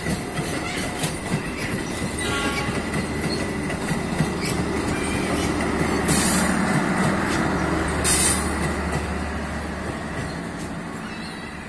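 Passenger train coaches rolling slowly over a station turnout, the wheels clattering over the points and rail joints. The power car passes about six seconds in with a steady low drone, and two short hisses come about six and eight seconds in. The sound fades as the train draws away.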